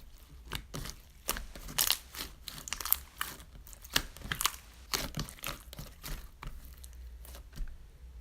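Crinkling and rustling of something being handled, with many short clicks and taps, busiest in the middle.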